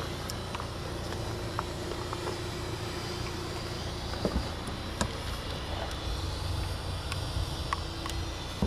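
Škoda Superb's 1.9 TDI four-cylinder turbodiesel running steadily, a low rumble with a few light clicks.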